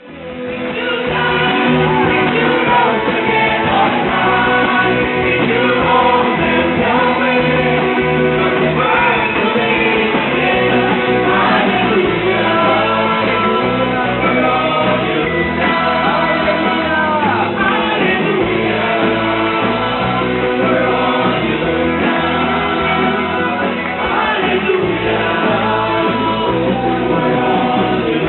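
A worship song performed by a band with singing voices over it.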